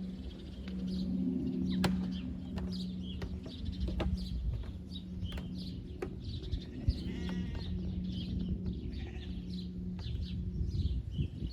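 Outdoor farm ambience: small birds chirping repeatedly, and an animal bleating once about seven seconds in, over a steady low hum.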